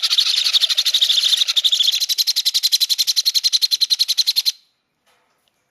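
Baby Meyer's parrot's rapid, high-pitched pulsing feeding call, about a dozen pulses a second, while it is syringe-fed. The call cuts off suddenly near the end.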